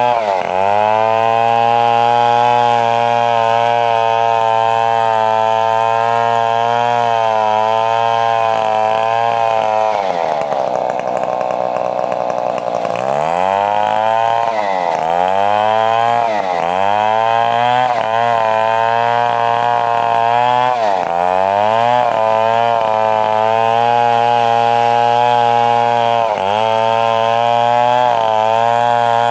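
Stihl 070, a large two-stroke chainsaw, running at high revs while cutting a coconut palm trunk. It holds a steady high pitch, turns rougher for a couple of seconds about a third of the way in, then dips briefly in pitch several times before picking back up.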